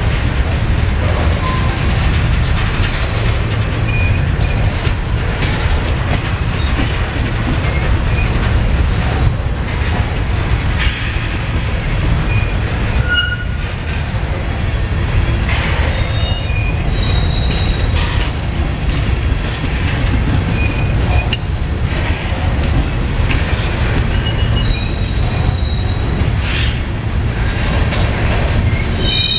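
Freight train of covered hopper cars rolling past close by: a steady low rumble of steel wheels on rail, broken now and then by brief high-pitched wheel squeals and a few sharp clicks.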